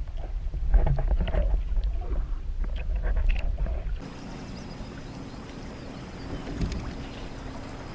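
Water sloshing and splashing around a kayak, with a heavy low rumble and irregular knocks. About four seconds in it cuts abruptly to a quieter, steady low hum.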